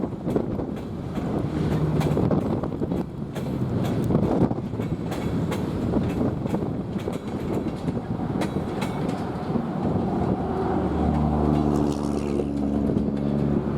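Freight cars of a loaded sand train rolling past at speed, wheels clicking steadily over rail joints. About eleven seconds in, the steady drone of a diesel locomotive's engine joins the rolling noise.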